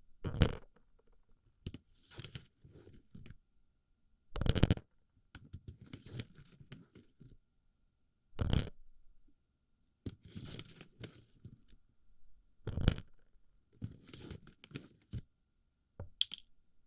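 Plastic BB pellets packed into and shuffled against a microphone's ear, close-up: a loud crunchy rush about every four seconds, with softer grainy rustling and rattling in between.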